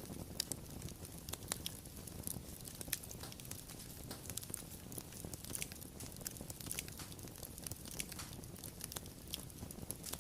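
Wood fire crackling, with irregular sharp pops and snaps over a steady low rumble of the burning.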